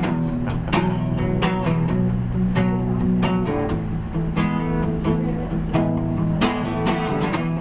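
Acoustic guitar strummed in steady, regular chords, the instrumental intro of a song before the vocals come in.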